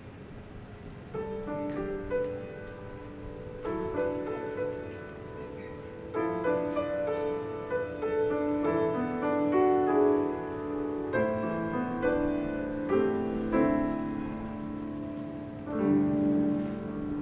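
Piano playing a classical-style piece, beginning about a second in with a run of separate notes in phrases.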